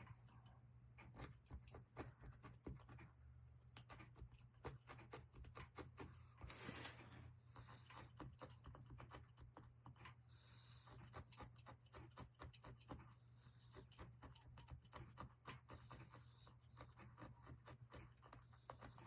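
Felting needle stabbing wool roving into a foam block: faint, rapid pokes, several a second, with a longer rustle about seven seconds in.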